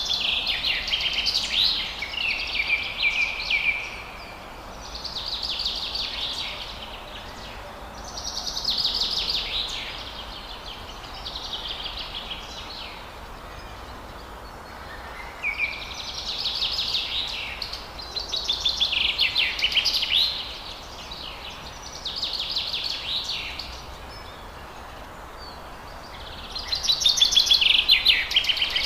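Forest songbirds singing high, rapid warbling phrases, each a few seconds long, with short pauses between, over a steady hiss of background noise. The loudest phrase comes near the end.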